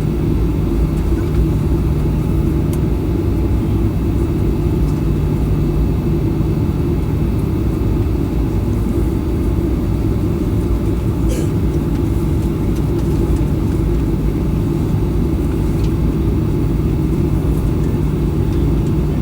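Boeing 737-800's CFM56 jet engines running steadily, heard inside the passenger cabin: a loud, even rumble with a steady low hum.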